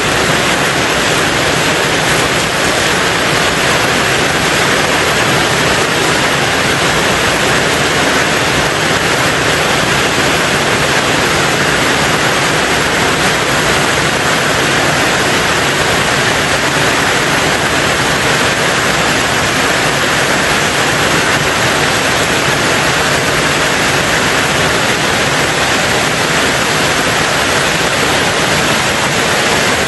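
Heavy rain drumming steadily on a tin roof, a dense even hiss with no separate drops standing out.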